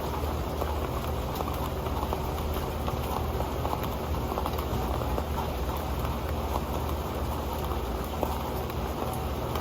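Steady rain falling on an old metal pan: a dense, even patter of small drops striking the pan.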